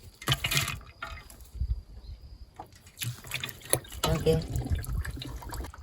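Water pouring and splashing into a cooking pot in irregular gushes, with a few light knocks.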